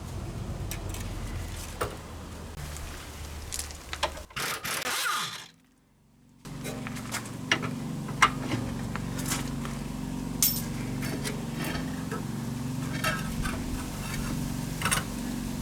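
Scattered metallic clinks and knocks of hand tools on steel suspension parts during disassembly, over a steady low hum, cutting out briefly about five seconds in.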